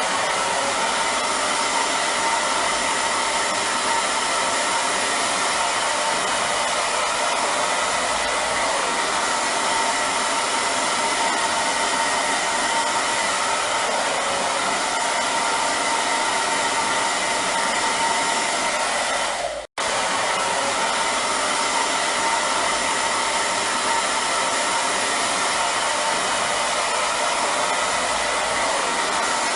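Hair dryer running steadily: a constant rush of blown air with a faint, even whine. The sound drops out for a split second about two-thirds of the way through, then carries on unchanged.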